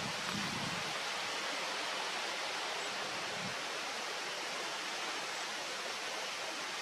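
Steady, even rushing noise of outdoor ambience, with a faint low bump a few seconds in.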